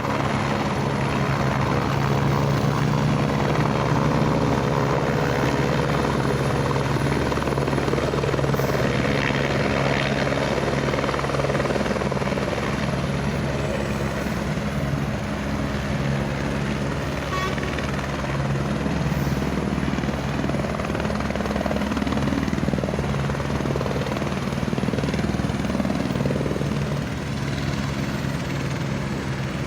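Police helicopter's rotor and turbine running at a steady, loud level throughout.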